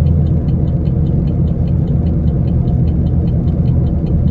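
Straight-piped 2013 Camaro 2SS 6.2-litre V8 running with a steady, deep rumble, heard from inside the car.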